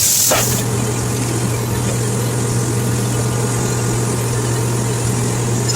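A steady mechanical hum, like a motor running, under an even noise. A loud high hiss stops about half a second in.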